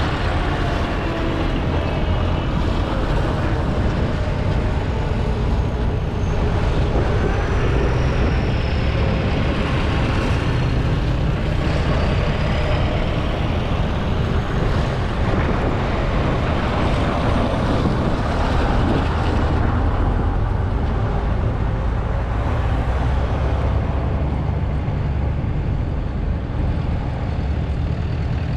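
Vintage tractor diesel engines running steadily on the road. A faint high whine falls and then rises again midway through.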